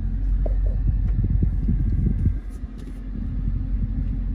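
Dodge Charger SRT 392's 6.4-litre HEMI V8 idling, heard from inside the cabin as a low rumble that dips briefly about halfway through.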